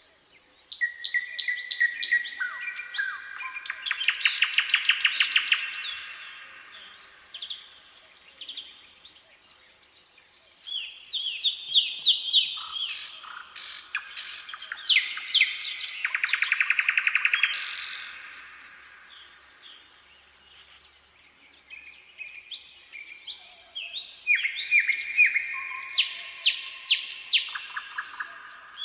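Nightingale singing: varied whistled phrases and fast rattling trills, in three bouts separated by short pauses.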